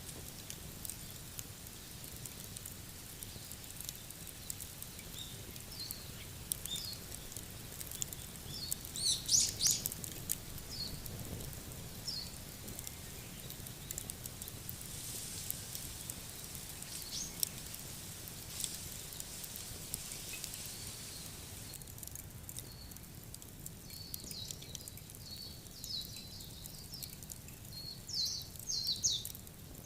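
Small birds chirping in short high calls, a busy flurry about nine seconds in and more again near the end, over scattered faint crackles and a steady low background hiss.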